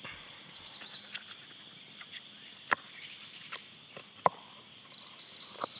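Crickets and other insects calling steadily in a high chorus, with repeated trills over it. A few sharp clicks and knocks of gear being handled cut through, the loudest about four seconds in.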